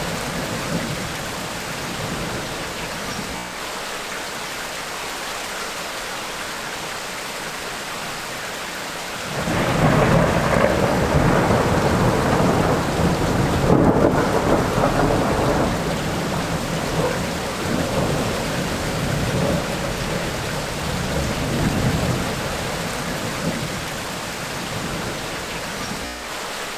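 Steady tropical rainstorm rain, with a long roll of thunder that breaks in sharply about a third of the way through and slowly rumbles away over some ten seconds.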